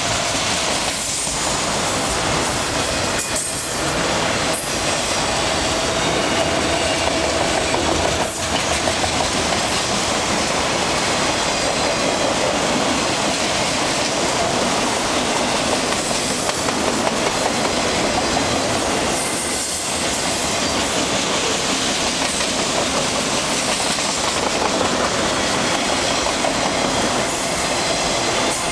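Long autorack freight train rolling past, its wheels clacking over the rail joints, with a faint steady squeal of wheel on rail.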